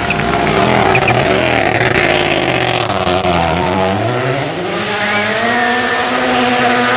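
Rally car engine at full throttle on a gravel stage, its pitch dropping and rising through gear changes and then climbing steadily.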